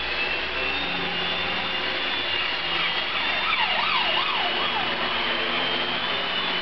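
Esky tandem-rotor mini RC helicopter's small electric motors whining and rotors whirring in flight, the high whine wavering slowly in pitch, with a brief fast up-and-down warble a few seconds in.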